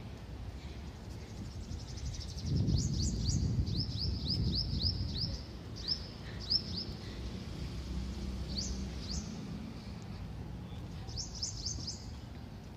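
Birds calling in quick runs of short, high chirps, in several bursts. Under them a low rumble swells about two and a half seconds in and fades out by about five and a half seconds.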